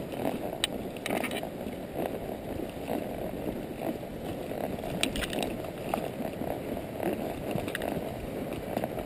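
Palomino Quarter Horse walking under a rider: hoof falls and tack noise over a steady rustling background, with a few scattered sharp clicks.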